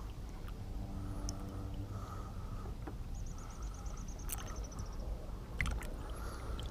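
Kayak hull and water noise with scattered small clicks and knocks. About three seconds in, a quick run of faint high ticks, about ten a second, lasts around two seconds.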